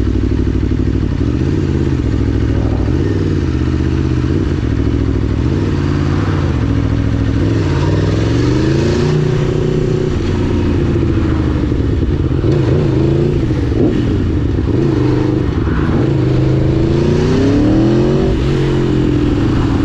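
Aprilia Tuono V4 1000's V4 engine running under way, its revs rising and falling repeatedly as the bike speeds up and slows. It climbs clearly about eight seconds in and again near the end.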